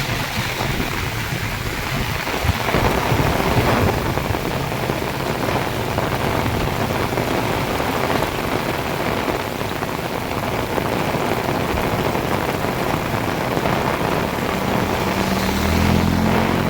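Heavy rain pouring down steadily, a dense hiss of drops on surfaces. A low droning hum joins near the end.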